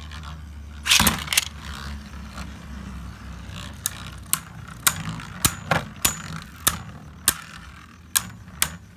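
Beyblade Burst spinning tops launched into a plastic stadium, with a loud rip of the launch about a second in. The tops then whir round the stadium, with sharp clicks as they clash that come more and more often toward the end.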